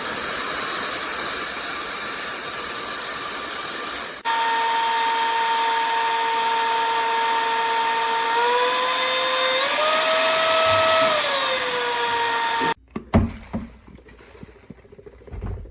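Trucozie cordless stick vacuum cleaner running: a high motor whine over rushing air, changing about four seconds in to a lower steady hum that steps up in pitch twice and then falls back. The motor cuts off suddenly near the end, followed by a few faint knocks.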